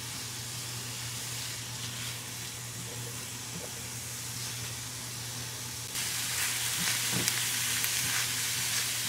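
Diced onions and garlic sizzling in butter in a frying pan, stirred and scraped with a silicone spatula; the sizzle gets louder about six seconds in.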